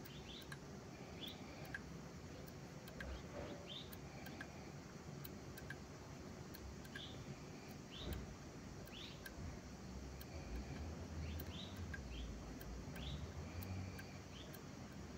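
Faint birds chirping: short rising notes about once a second over a low, steady background. A single soft knock comes about eight seconds in.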